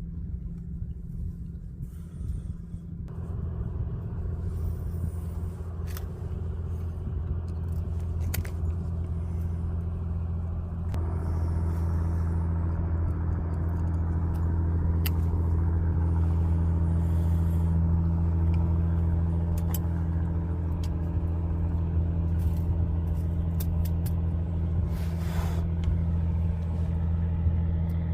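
Wood fire crackling with scattered sharp pops over a steady low rumble that grows louder about 3 and 11 seconds in.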